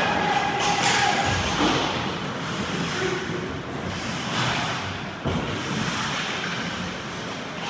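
Ice hockey play in a rink: a steady scraping hiss with a couple of thumps, about a second in and again about five seconds in.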